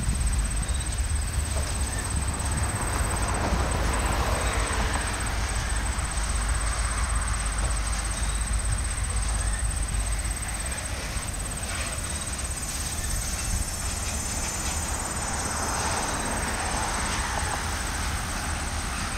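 Covered hopper cars of a Canadian Pacific freight train rolling past with a steady low rumble, a few faint knocks from the wheels and couplers.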